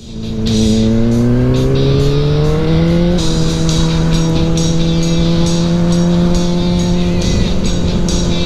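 Honda CBR600RR motorcycle engine rising in revs over the first three seconds, then holding steady, with music with a beat playing over it.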